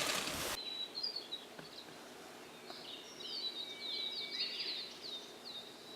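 A small bird singing: a brief high note, then about a second and a half later a quick run of high, downward-sliding chirps. It follows a loud burst of noise that cuts off abruptly in the first half second.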